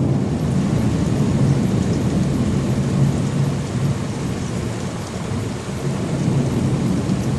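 Thunder rolling in a long, steady low rumble, with rain hissing underneath.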